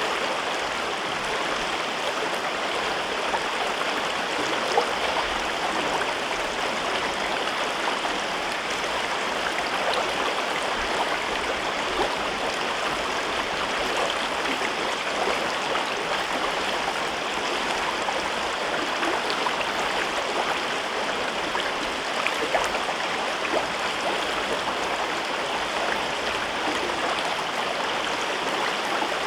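Gorge river running steadily: an even rush of flowing water with small splashes here and there.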